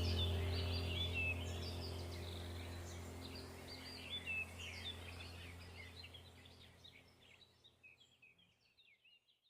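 Small birds chirping and twittering over a low steady hum, all fading away steadily until the sound cuts out at the very end.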